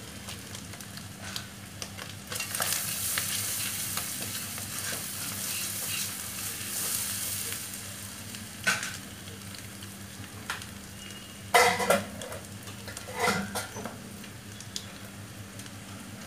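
Egg and spice mixture sizzling as it fries in a nonstick frying pan and is stirred with a spatula; the sizzling is strongest through the first half. In the second half the spatula clatters against the pan a few times.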